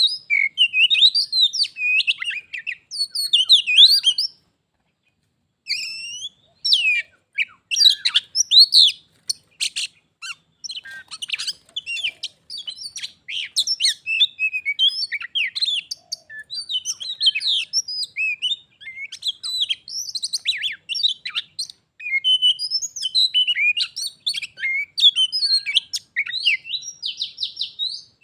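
Oriental magpie-robins singing: a loud, rapid run of varied whistles and harsh chattering notes, with a short pause about four seconds in. The song is a territorial singing contest between a caged magpie-robin and a wild one.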